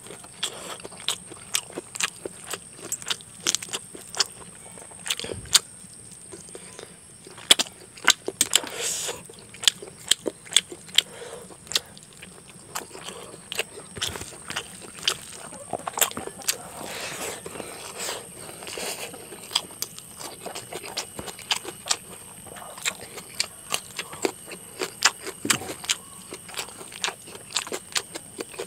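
Eating sounds: chewing and biting on chicken curry and rice eaten by hand, a stream of short wet clicks and smacks at irregular intervals.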